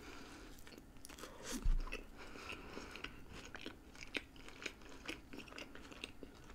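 Close-miked eating sounds of a person biting into a burger and chewing it: quiet, wet chewing with many small crunches and mouth clicks. A single low thump comes about a second and a half in.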